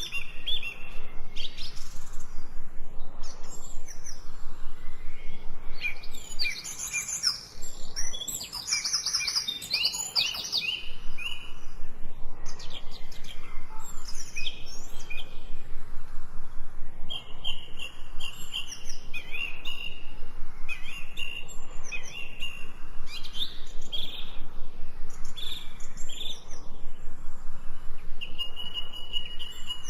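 Several birds singing and calling together, a dense run of short chirps and trills with held whistled notes; the calling is busiest and most overlapping a few seconds in.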